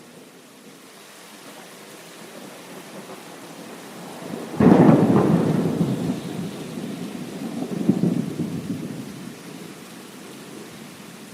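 Steady rain with a thunderclap about halfway in: a sudden crack that rolls off into rumbling, followed by a second, smaller rumble a few seconds later.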